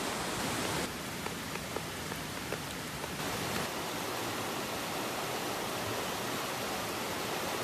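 Steady rush of running water, as from rain runoff pouring through a ditch beside a rice paddy, with a few faint ticks about one to three seconds in.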